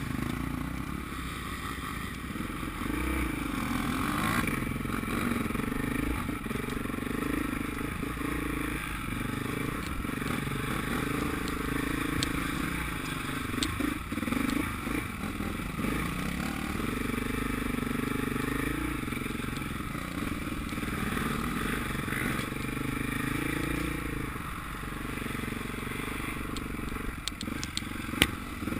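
Motocross dirt bike engine revving up and down several times, its pitch rising and falling as the bike rides, with a few sharp clicks and one louder knock near the end.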